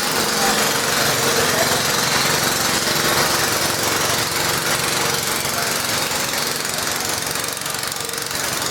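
Garden tractor engine running loud and steady, typical of a tractor pulling a weight sled down the track.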